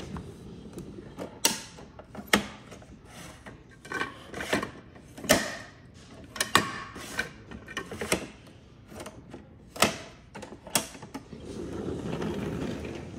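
Toy garbage truck's mechanism clicking and clacking irregularly as it is worked, a dozen or so sharp clacks, some with a short ring. A low hum swells near the end.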